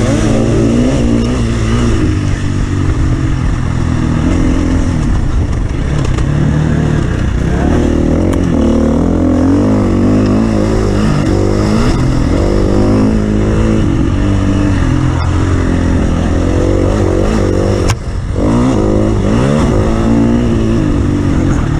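Off-road vehicle engine running hard, its pitch rising and falling steadily as the throttle is worked over rough ground. The engine drops off briefly near the end, then picks up again.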